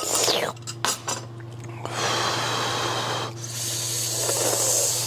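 Close-miked eating sounds from a goat head: a few sharp clicks in the first second, then two long hissing sucking sounds of about a second and a half each.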